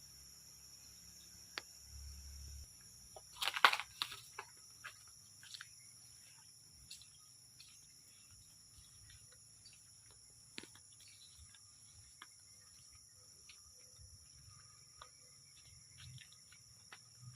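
Steady high-pitched insect chorus, with scattered small clicks and rustles and a louder crackling rustle about three and a half seconds in.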